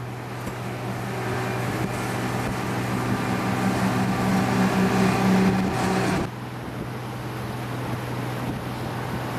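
Boat engine running steadily. A louder engine drone builds over about six seconds, then drops away suddenly.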